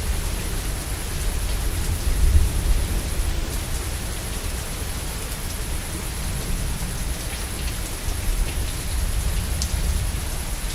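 Steady heavy rain with a low rumble of thunder that swells about two seconds in and again near the end, and scattered ticks of drops hitting surfaces.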